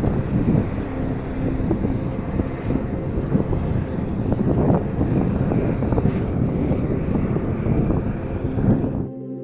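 Wind gusting against a trail camera's microphone, a rough low rumble with faint steady tones underneath. It cuts off abruptly near the end.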